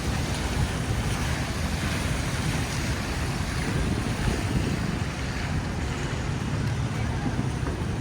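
Steady rushing city street ambience during a snowstorm, heavy in low rumble.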